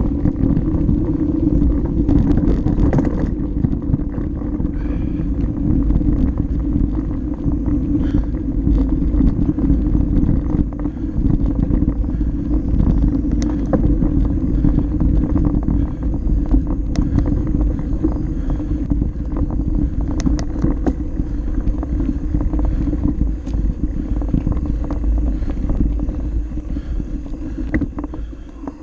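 Mountain bike riding down a dirt flow trail: steady wind rumble on the microphone mixed with tyre noise and scattered clicks and rattles from the bike. The noise eases off near the end.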